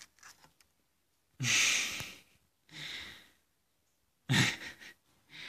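A man sighs heavily twice, about three seconds apart, and each sigh is followed by a softer breath.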